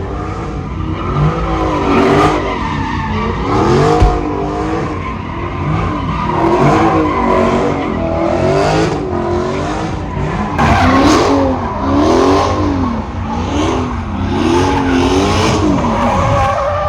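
A car doing donuts: its engine revs up and down over and over, about once a second, while the tyres squeal and skid in bursts.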